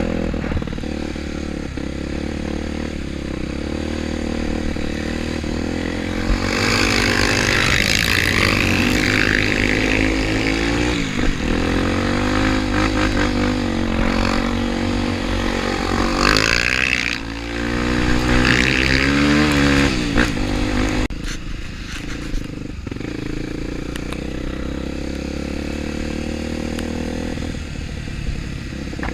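Trail motorcycle engine ticking over, then revved hard for about fifteen seconds with its pitch rising and falling repeatedly, then dropping back to a low, steady run.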